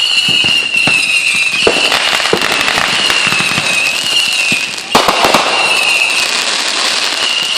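Fireworks going off: dense, rapid crackling and popping of firecrackers, with a sharp bang about five seconds in, over a steady high whine.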